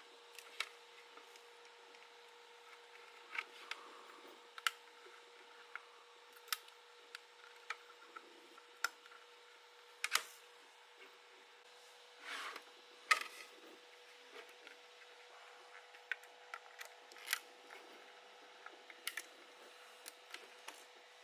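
Irregular small clicks, taps and brief rubbing as 3D-printed plastic model parts are handled and fitted together, over a faint steady hum.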